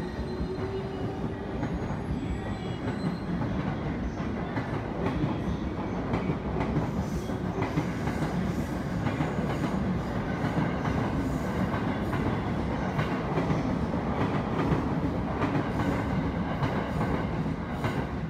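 Electric commuter train running past on a neighbouring station track: steady rolling noise, with wheels clacking over rail joints through the second half.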